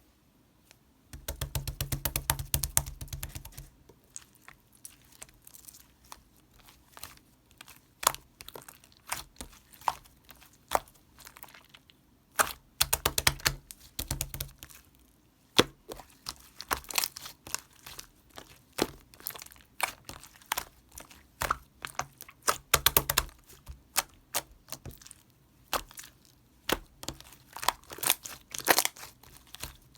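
Slime being pressed, squished and stretched by hand, making dense crackling clicks and small popping sounds, with louder squelching bursts of trapped air near the start, about halfway through and around two-thirds in.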